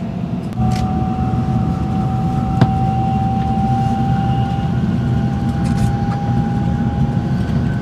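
Interior running noise of an N700S Shinkansen accelerating under automatic operation: a low rumble that grows louder about half a second in, with a thin electric whine from the traction drive slowly rising in pitch as the train gathers speed. A single sharp click comes about two and a half seconds in.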